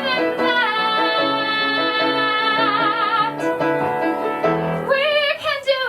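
A woman singing a long held final note with vibrato over piano chords, the note ending about three seconds in. Near the end, whooping voices and the first scattered claps begin.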